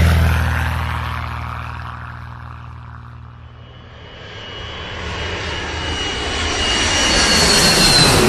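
A passing vehicle's rumble fades away over the first few seconds, then an airplane approaches, its engine noise and a high whine growing steadily louder toward the end.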